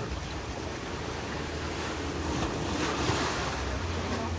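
Ocean surf washing in, swelling to a peak about two and a half to three and a half seconds in, with wind rumbling on the microphone.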